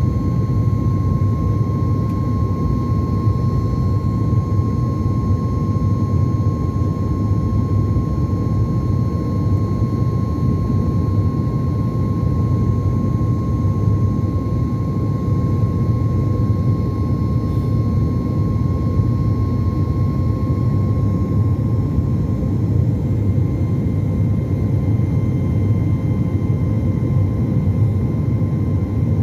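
Airliner's jet engines heard from inside the passenger cabin during takeoff: a steady, loud rushing noise, with a thin whine that fades out about three quarters of the way through.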